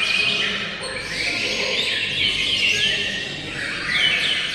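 Songbirds singing: several birds at once, with rapid chirps, trills and short sweeping whistles overlapping steadily.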